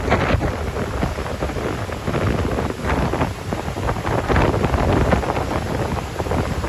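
Strong wind buffeting the microphone in uneven gusts, a heavy low rumble.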